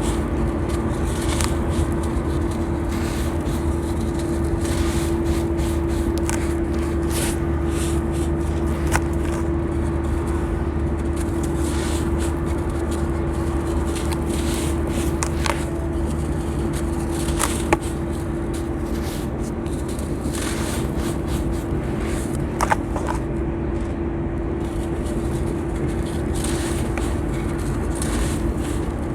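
Crispy sand blocks crumbling, with scattered gritty crackles and a few sharper cracks, over a steady mechanical hum.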